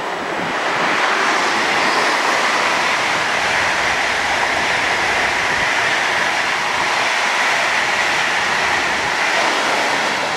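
ICE high-speed electric train passing at speed on the near track: a loud, steady rush of wheel, rail and air noise that builds about a second in, with a faint high whine over it.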